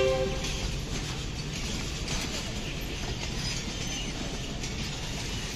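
Pakistan Railways passenger coaches rolling past with a steady rumble of wheels on rail. The end of a locomotive horn blast cuts off right at the start.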